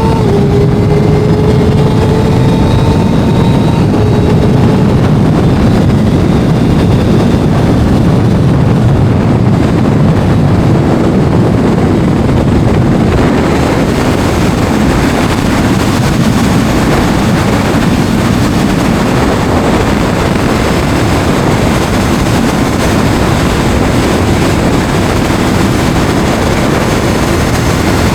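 Kawasaki sport motorcycle running at speed, its engine note rising slowly over the first few seconds. After that it is buried under heavy wind rush on the microphone.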